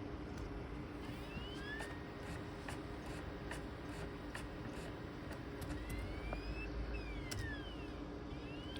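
A laptop's CD-ROM drive reading the ReactOS install disc: scattered clicks of the drive seeking and short rising and falling whines as the disc speeds up and slows, over a steady machine hum.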